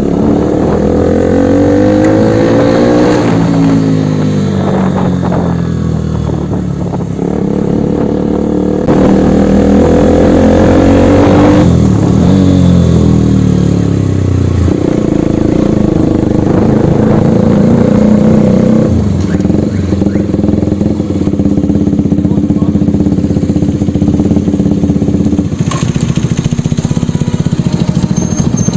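Motorcycle engine pulling through the gears, its pitch climbing and dropping back at each shift several times, then settling into a steady cruise.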